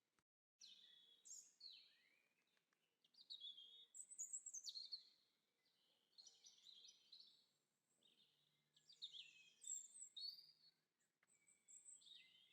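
Faint birdsong: quick series of high chirping, warbling phrases with short pauses between them. The sound drops out completely for a moment just after the start.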